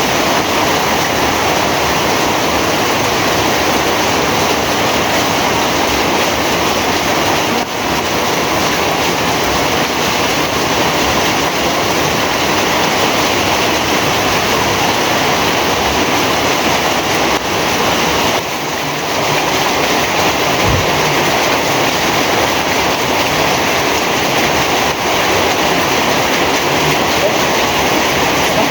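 Heavy rain pouring down as a steady, dense hiss, with two brief dips about eight and eighteen seconds in.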